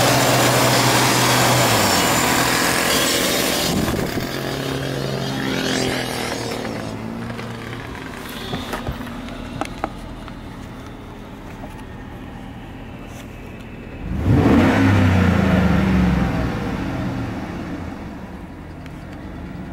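A 5.3-litre LMG V8 running in a 2012 Chevrolet Silverado. It runs fast at first and drops back to a steady idle about two seconds in. About fourteen seconds in it is revved sharply, the loudest point, and the revs fall away over the next few seconds.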